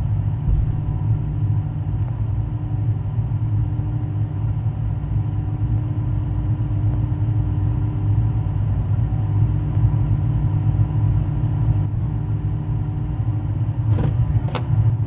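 Race-car engines running steadily with a deep low rumble and no revving. Two short sharp clicks come near the end.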